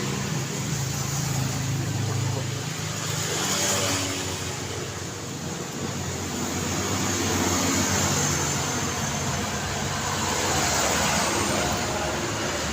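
Road traffic: cars passing, with a low engine hum early on and the noise swelling as vehicles go by, about three times.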